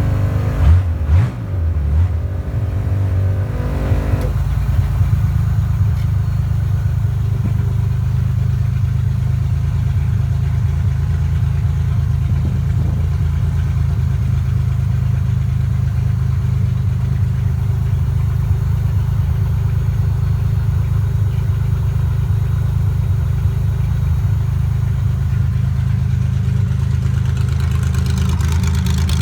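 1974 Porsche 911 RSR's air-cooled flat-six race engine running at a steady idle as it warms up after a cold start, with a couple of brief rises in revs in the first two seconds.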